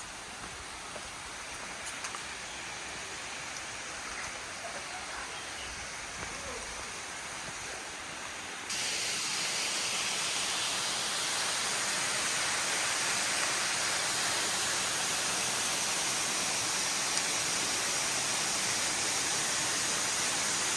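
Waterfall rushing, a steady hiss of falling water; about nine seconds in it suddenly becomes louder and brighter and stays so.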